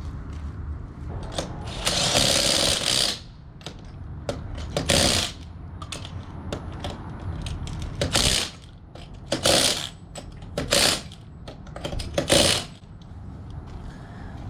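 A power tool run in about six short bursts, with clicks and clanks of hand work between them.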